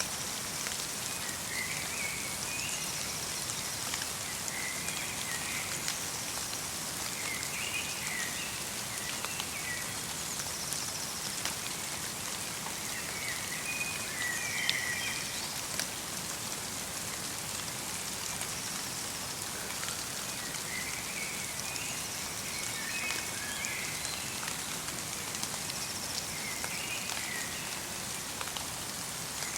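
Steady light rain mixed with falling snow, a soft even patter, with a small songbird giving short chirping calls every few seconds.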